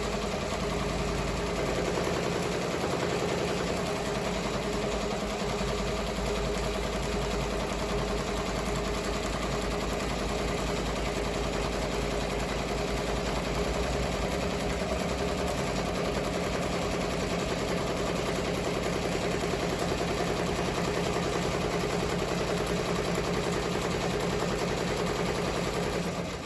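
Ricoma MT-1501 15-needle embroidery machine stitching steadily at speed, a fast, even run of needle strokes that stops at the end. It has a smacking in its run that neither stops the machine nor spoils the stitching.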